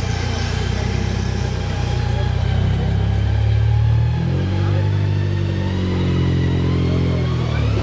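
Off-road competition vehicle's engine running under load, its pitch dropping about halfway through and then rising again.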